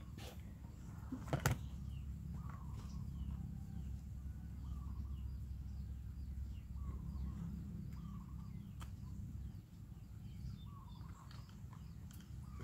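Small birds chirping repeatedly in the background over a low steady hum, with a sharp click about a second and a half in and another near the end of the first nine seconds.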